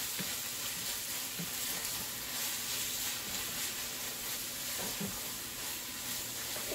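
Sliced onions and tomatoes sizzling in oil in a pot, stirred with a wooden spatula that scrapes through them now and then; a steady frying hiss.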